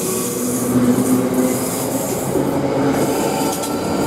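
South Western Railway Class 458 electric multiple unit pulling out of the station, its coaches passing with the steady hum of the electric traction equipment over wheel-on-rail rumble.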